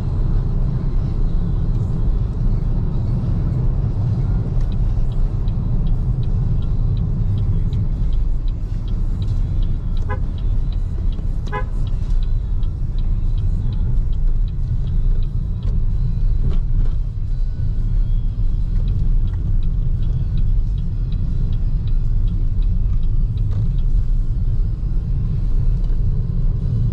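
Steady low road and tyre rumble from a moving BYD Seagull electric car in traffic, with no engine note. A car horn toots twice, about ten seconds in and again a second and a half later.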